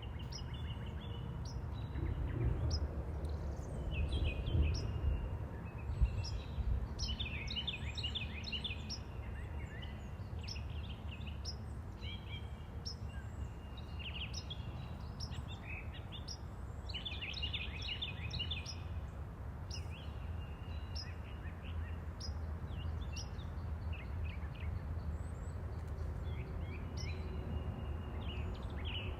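Several birds chirping and trilling in short, overlapping calls, over a steady low rumble of background noise.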